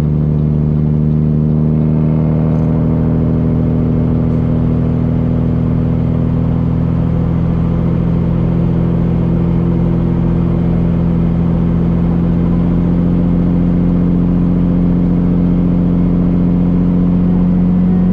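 Peterbilt semi truck's diesel engine pulling steadily, its drone rising slowly in pitch as the truck gains speed.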